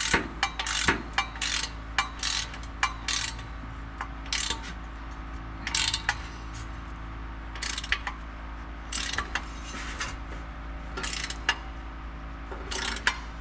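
Hand ratchet wrench clicking in short, irregular runs while exhaust bolts are tightened.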